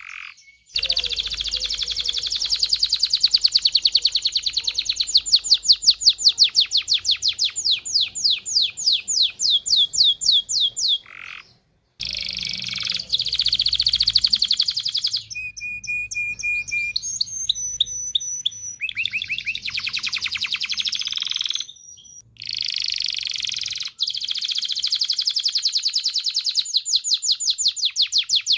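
Domestic canary singing: long runs of fast, rapidly repeated high trill notes, with a passage of steadier held whistled notes midway and two brief pauses, about two fifths and three quarters of the way through.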